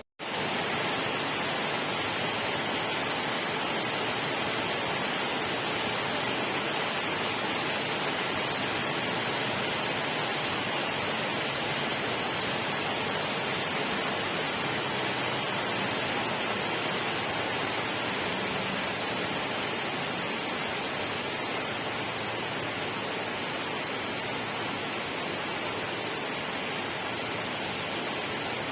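Steady, even rushing of water, a dense hiss that cuts in abruptly at the start and holds level.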